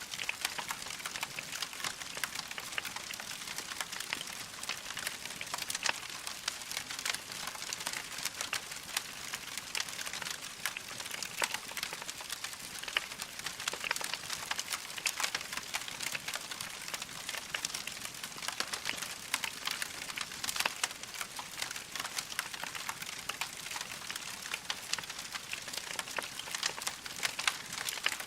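Wood fire burning in a fireplace: logs crackling with a dense, irregular stream of small pops and snaps over a steady hiss.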